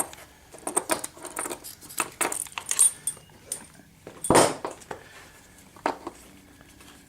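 Small metal clips and slides of ALICE pack webbing clinking and rattling as the straps are handled, in a run of short clicks with one louder rustle about four seconds in.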